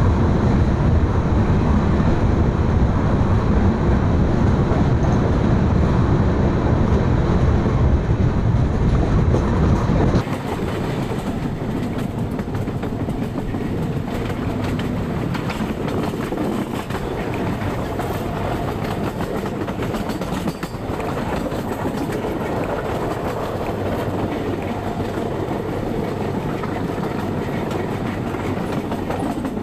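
Express passenger train running along the track, a steady rumble and rattle of the wheels and coach. About ten seconds in, the sound changes abruptly to a quieter, thinner rattle with much less low rumble.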